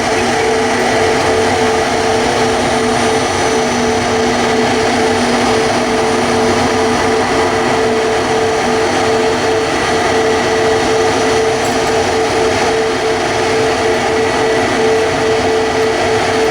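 Airbus A321neo jet engines running steadily and loudly, a constant noise with a steady hum held at one pitch throughout.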